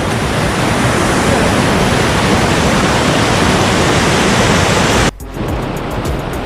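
Steady rushing roar of a waterfall's falling water, which cuts off abruptly about five seconds in.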